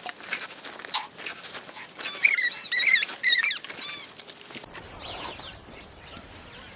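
A quick run of high, squeaky animal calls about two to three seconds in, among scattered knocks and rustling.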